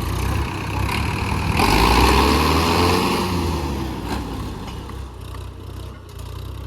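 Diesel tractor engines running under load in a tractor tug-of-war. About a second and a half in the engine noise surges, then the engine pitch sags and the sound dies back to a steady lower drone by about four seconds.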